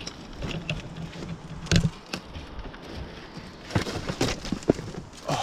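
Irregular scuffs, knocks and rustles of someone clambering up a bank through undergrowth, with a low steady hum for about a second and a half near the start.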